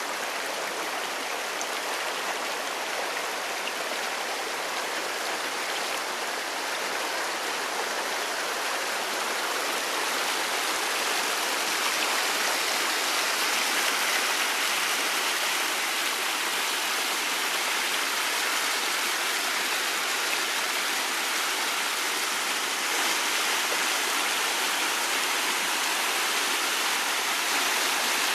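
Steady rushing water, an even hiss with no breaks, swelling a little partway through.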